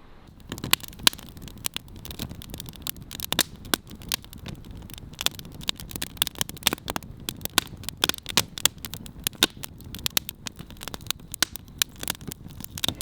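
Wood fire crackling, with many sharp, irregular pops as the firewood catches.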